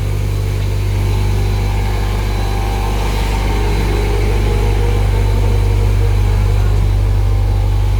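Automatic pull-out tissue folding machine running with a steady, loud low hum, a faint higher whir rising a little in the middle.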